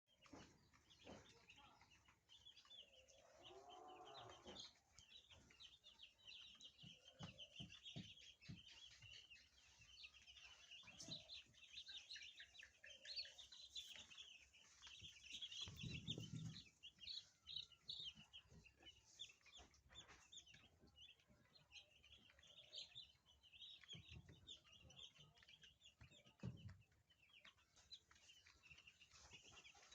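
A crowd of two-day-old broiler chicks peeping continuously, many short high chirps overlapping. A few low bumps stand out, the loudest about halfway through.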